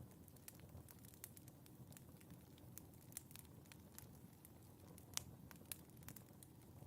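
Wood fire crackling in a fireplace: faint, scattered sharp pops and snaps over a soft, steady hiss, with one louder pop about five seconds in.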